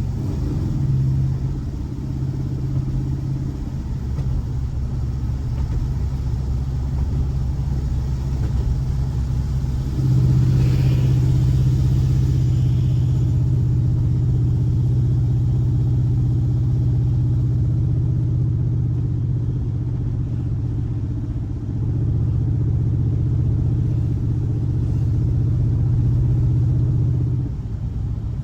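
Air-cooled 1584 cc flat-four boxer engine of a Volkswagen Fusca (Beetle) running steadily at a fairly constant speed. It gets louder about ten seconds in, dips briefly about two-thirds of the way through, and eases off again near the end.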